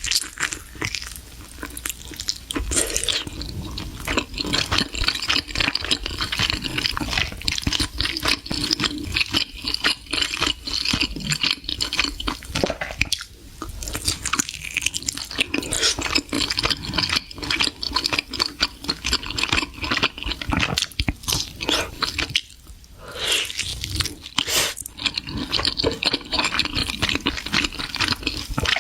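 Close-up mouth sounds of a person eating seafood: steady chewing and crunching, with brief pauses about 13 and 22 seconds in.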